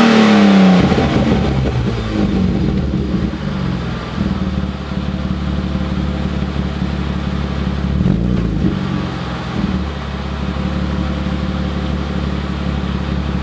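BMW E36 320i's M52B20 2.0-litre straight-six through a Supersport aftermarket muffler: revs falling back to idle at the start, then idling steadily, with one short throttle blip about eight seconds in.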